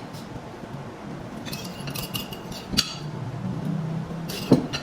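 Cutlery clinking and scraping against plates during a meal: a few scattered clinks, the loudest near the end.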